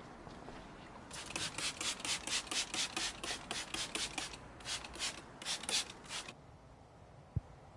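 A brush scrubbing a car wheel in quick back-and-forth strokes, about four a second, stopping about six seconds in.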